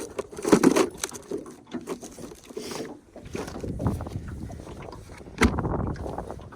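Irregular knocks and rustling of people moving and handling gear in a jon boat, with one loud thump against the boat about five and a half seconds in.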